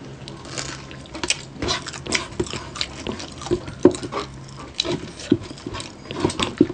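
Close-miked chewing of crispy pata, deep-fried pork knuckle: irregular crunches and crackles of the fried skin with wet mouth sounds as two people eat it.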